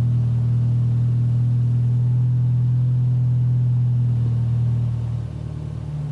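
BMW F30's exhaust, fitted with an aftermarket downpipe and Magnaflow cat-back, running with a steady low drone; about five seconds in it eases off a little and the note shifts.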